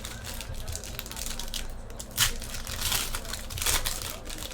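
Foil wrapper of a Panini Prizm football card pack being torn open and crinkled by hand, with sharp rustles about two seconds in and again near the end.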